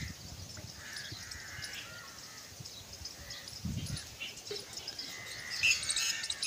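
Birds chirping and calling faintly in outdoor ambience, a little louder near the end, with a brief low thud about three and a half seconds in.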